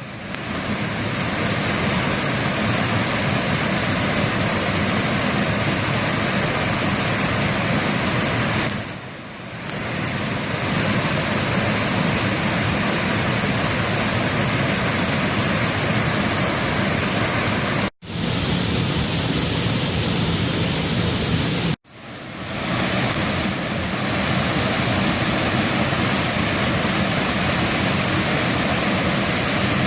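Waterfall rushing, loud and steady, a dense hiss of falling water across all pitches. It dips briefly about a third of the way in and cuts out abruptly for an instant twice after the middle.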